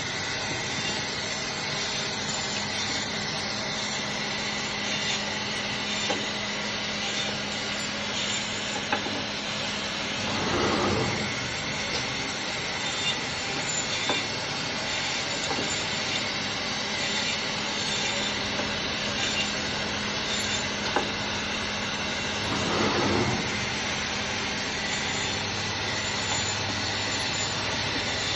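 HY-420A automatic meat band saw running steadily, cutting a leg of lamb, with a constant hum and hiss from the motor and blade. A louder swell about a second long comes twice, roughly twelve seconds apart.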